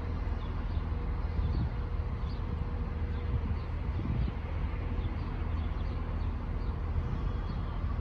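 A West Midlands Railway Class 170 Turbostar diesel multiple unit is idling at the platform, its underfloor diesel engines giving a steady low hum. Faint high chirps sound over it.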